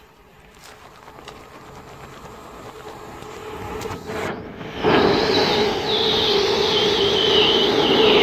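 Class 350 electric multiple unit approaching and running through the station without stopping. Its rail noise builds steadily, then about five seconds in a sudden loud rush of wheel and motor noise with a steady hum as the carriages pass close by.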